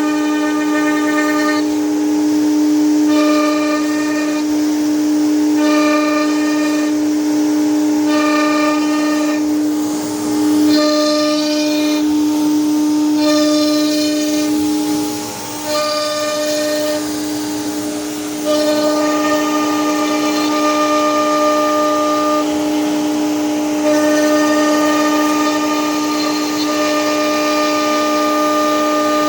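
CNC machine running, its motors giving a steady whine with a higher, stacked tone that pulses on and off about every two and a half seconds, then holds longer near the end.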